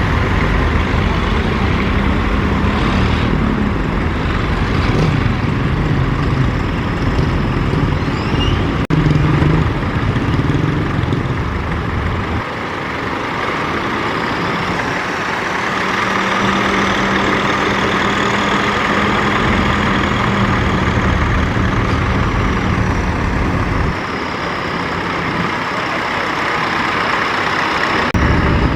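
Tractor engines running loud and hard, as on an uphill pull, with the engine note shifting several times and a faint high whine in the second half.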